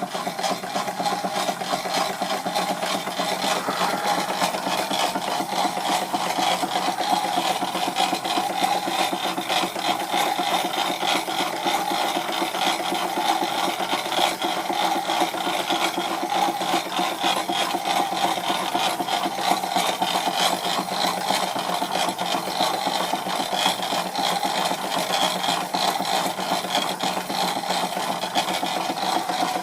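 Stuart Victorian model mill engine running steadily on steam with a fast, even mechanical clatter, driving a Wilesco fairground model.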